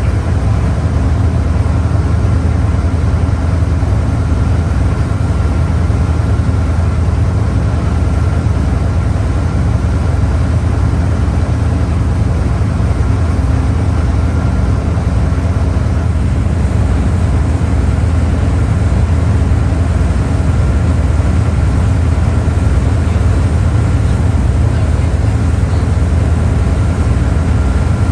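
Motorboat engine running steadily at cruising speed: a loud, unbroken low drone with a faint steady whine above it.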